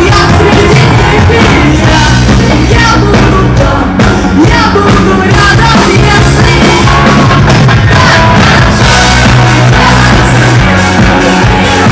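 Loud live performance by a rock-reggae band with an orchestra, with a sung vocal line over a steady bass.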